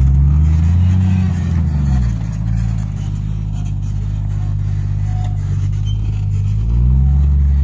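Lifted Jeep Cherokee's engine revving while crawling off-road: the pitch rises about half a second in and falls back by about two seconds, runs lower and steady, then revs up again near the end.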